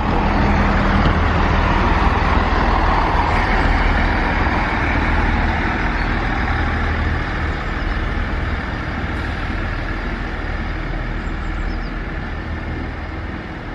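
Chiltern Railways diesel train on the move at the platform, a steady low engine hum with a rushing wheel and rail noise that is loudest early and slowly fades as it draws away.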